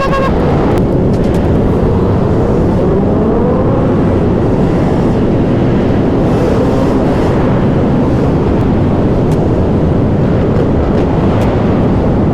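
Loud, steady drone of many motorcycles' engines and road noise as they ride together. A faint wavering tone rises and falls a couple of seconds in.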